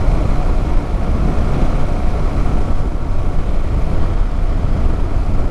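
Yamaha MT-07 motorcycle being ridden: a steady rush of wind over the microphone mixed with the rumble of its parallel-twin engine, heaviest in the low end.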